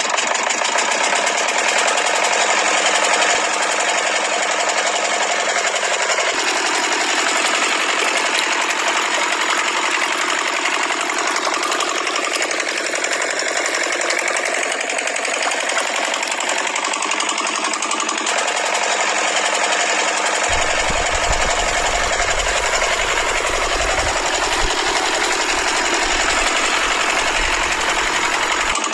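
A small electric motor running steadily with a buzzing whir. The sound changes abruptly about six seconds in, again near eighteen seconds, and at about twenty seconds, when a low rumble joins it.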